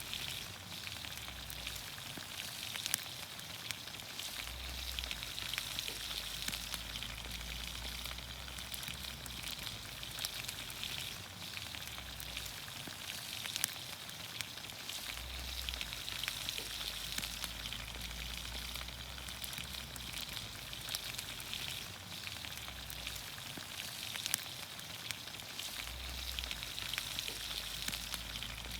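Vegetables (green beans, onions, carrots, potatoes) cooking in olive oil over a campfire: a steady sizzling hiss with scattered sharp pops and crackles.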